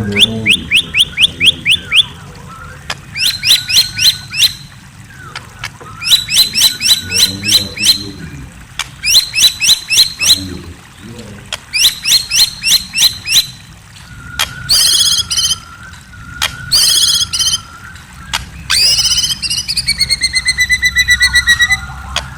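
A murai songbird singing: repeated fast runs of sharp high chirps, each run about a second and a half, with pauses between. From about 14 s in the phrases turn more varied, ending in a rapid trill that falls in pitch.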